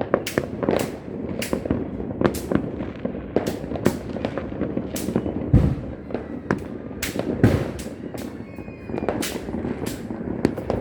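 Fireworks and firecrackers going off all around in a continuous barrage of sharp cracks, about one or two a second, with two deeper booms about halfway through.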